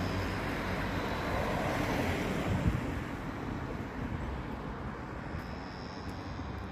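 Train passing over a railway level crossing: a steady rumble that eases off slightly after about three seconds.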